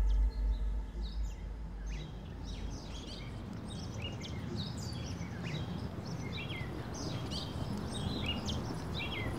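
Songbirds chirping in quick, short calls over a steady outdoor background hum. A low drone fades out over the first two seconds.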